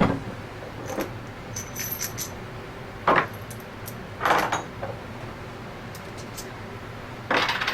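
Small metal parts and tools clinking and knocking on a workbench: scattered clicks, a few with a brief metallic ring, as parts of a compressor shaft seal assembly are handled.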